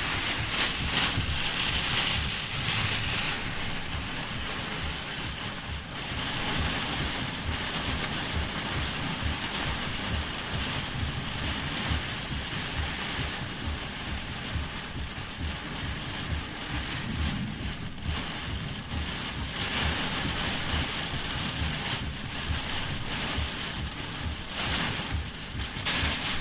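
Heavy rain pouring in a strong wind, a steady hiss that swells and eases, with gusts buffeting the microphone in low rumbles.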